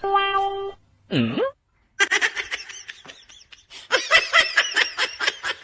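A short steady beep-like tone, a brief swooping sound about a second in, then bursts of laughter from about two seconds in.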